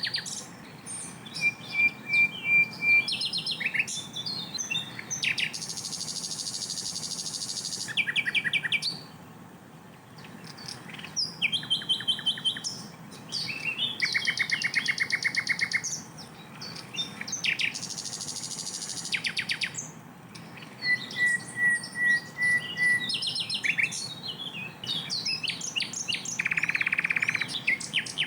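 Sikatan londo flycatcher singing a varied song without pause: fast chirps, rapid-fire trilled runs of notes ('tembakan'), short steady whistled note strings and a couple of longer harsh, rasping phrases.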